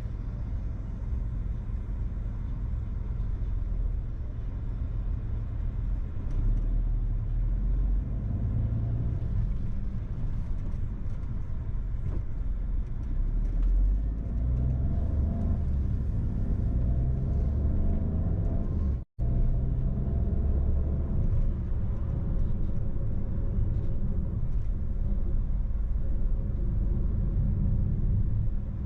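Steady low rumble of a car driving, heard from inside the cabin: tyre and engine noise at road speed. The sound cuts out completely for a split second about two-thirds of the way through.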